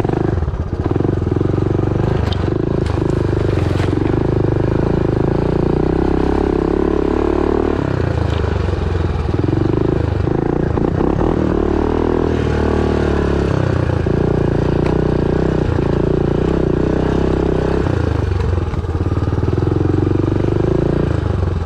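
Honda Big Red ATV engine running while it is ridden, the engine note steady but easing off and picking up again a few times.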